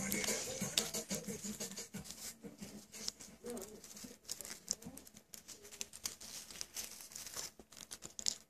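Irregular small clicks, taps and rustles of hands handling the small parts of a vape coil rebuild, with background music fading out in the first second.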